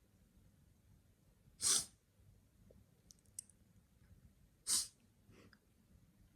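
Short, sharp breathy puffs, twice, about three seconds apart, like sneezes or forceful breaths.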